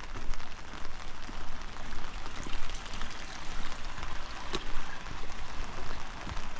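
Steady rain falling, with many separate raindrops striking close by.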